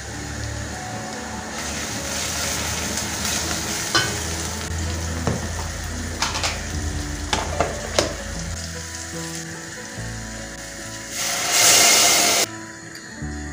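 Food sizzling in a hot pan while being stirred, with several sharp utensil knocks against the pan in the middle. Near the end the sizzling swells into a loud, harsh burst for about a second, then cuts off.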